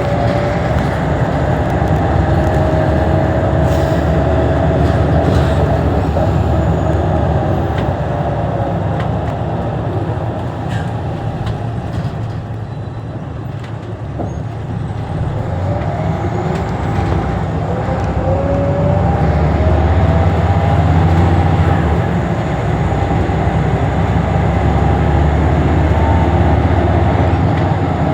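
Scania L94UB city bus driving, its engine and drivetrain pulling with a rising whine as it accelerates near the start and again about two-thirds of the way through, easing off in between.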